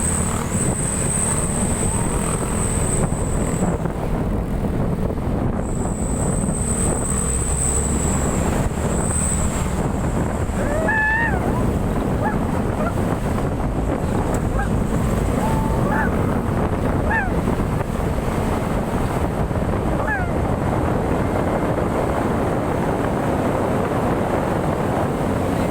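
Steady rumble and rush of a truck on the move, with wind buffeting the microphone. A thin high whine runs over it for roughly the first ten seconds.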